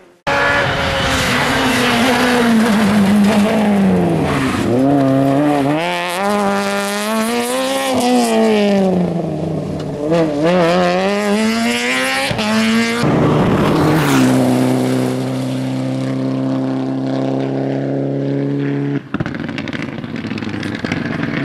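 Rally car engines at full throttle. The engine note climbs and drops again and again with gear changes and lifts off the throttle. After an abrupt cut about 13 seconds in, it holds a nearly steady pitch, then drops off sharply near the end.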